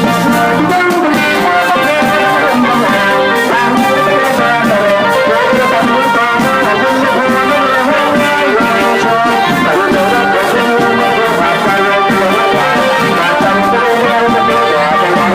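Thai trae wong brass band playing: brass horns holding and moving through notes over a steady drum beat.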